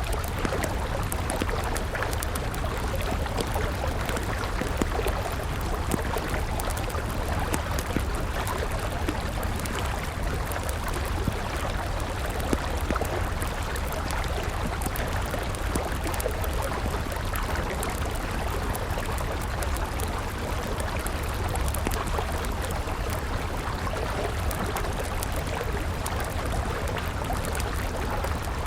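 A river flowing steadily, with a wood campfire crackling over it and a few sharper pops.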